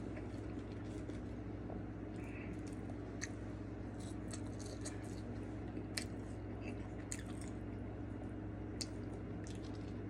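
A person chewing French fries with wet mouth clicks and soft crunches, close to the microphone, over a steady low hum.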